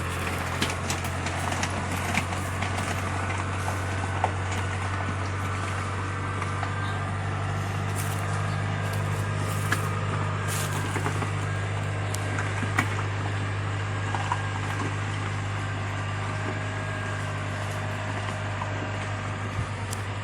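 A large engine running steadily at a low, even pitch, with a few light clicks and knocks on top.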